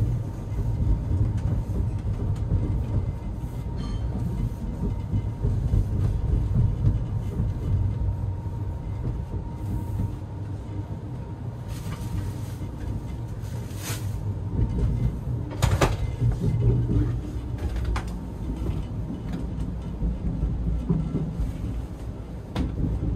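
CNR sleeper carriage of a moving express train, a steady low rumble. A few short rustles and knocks come through in the middle stretch as bedding is spread and the berths are handled.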